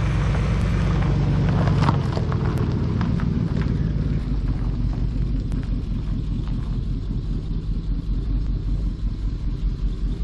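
An old Cadillac's engine runs steadily close by, then the car moves off about two seconds in. A few sharp clicks come as it pulls away, and the engine sound drops to a lower, more distant running as it drives off.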